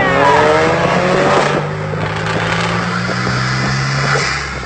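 Turbocharged 2.0-litre Ford EcoBoost four-cylinder of a VUHL 05 accelerating, its pitch climbing over the first second and a half. A high turbo hiss then builds before the engine note drops near the end.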